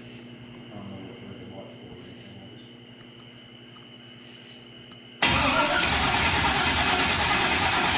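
A low steady hum, then about five seconds in a loud engine sound cuts in abruptly: the S10's turbocharged LS V8 being cranked over and started after attempts to get it to fire.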